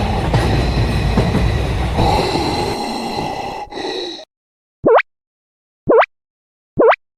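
Train running noise, a rumble with faint steady high tones, that cuts off abruptly about four seconds in. After a short silence come three short, quickly rising cartoon sound effects about a second apart.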